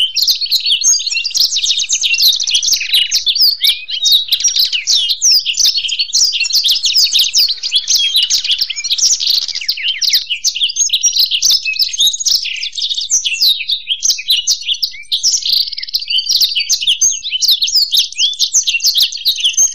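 Blackthroat (black-throated canary) and European goldfinch song: continuous, fast, high twittering and trilling phrases with no pause.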